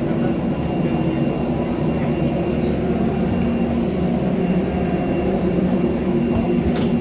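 Steady cabin hum inside a parked Airbus A320, from its air-conditioning and ventilation, with a few steady low tones running through it. A faint click near the end.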